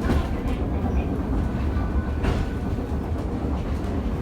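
Sakamoto Cable funicular car running downhill, heard from inside the car: a steady low rumble of wheels on rail, with a single sharp click about two seconds in.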